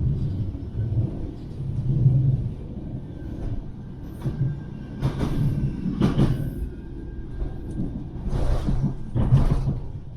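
Manchester Metrolink Bombardier M5000 tram running along the track, a steady low rumble with about five louder knocks from the wheels and running gear in the second half.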